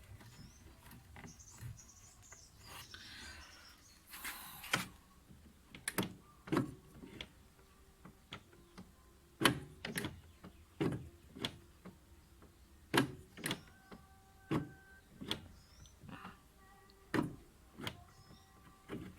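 Hands working on washing-machine parts: a run of irregular sharp knocks and clicks, with a brief scraping rustle about four seconds in.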